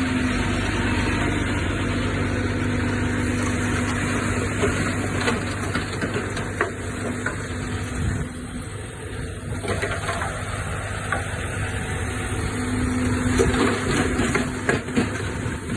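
Diesel engine of heavy earthmoving machinery running steadily, with scattered sharp clanks and knocks, clustered about five to seven seconds in and again near the end. The engine eases briefly just past the middle.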